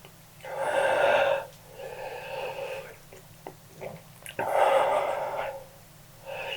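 A person breathing hard and wheezily through the mouth after eating an extremely hot chili chip: four drawn-out breaths about a second each, the second and fourth...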